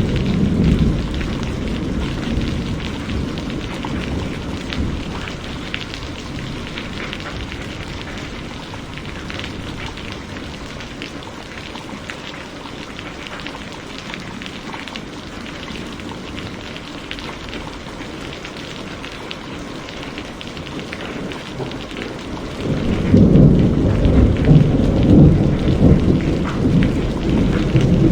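Heavy rain falling steadily. A low rumble of thunder fades out in the first couple of seconds, and another loud rumble of thunder starts about five seconds before the end.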